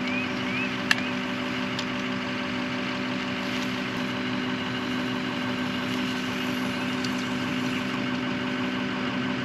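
An engine idling steadily, with an even, unchanging hum. There is one small click about a second in.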